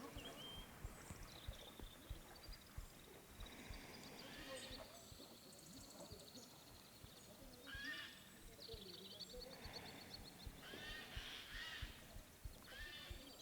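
Faint outdoor ambience with birds chirping and trilling now and then, in short high calls.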